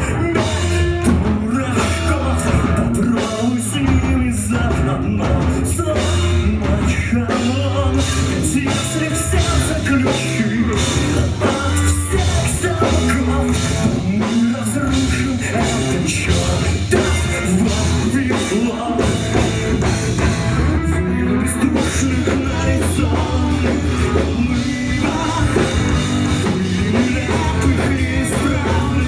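Rock band playing live, with drum kit and electric guitar, at a steady beat.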